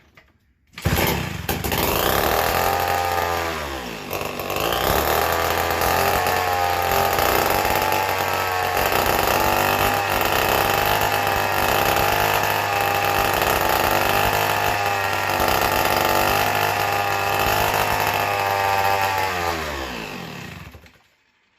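A McCulloch Model 73 gear-drive two-stroke chainsaw starts up loud. Its revs drop over the first few seconds, then it runs steady and real fast before winding down and dying near the end. The owner puts the fast running down to an air leak in the intake, suspecting a failed intake gasket.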